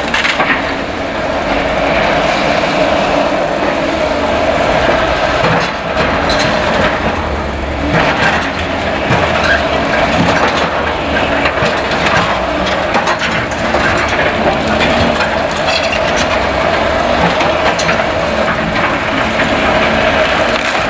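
CAT excavators working on demolition, their diesel engines running under load with a steady whine, and irregular clanks and cracks of rubble and timber being broken and moved.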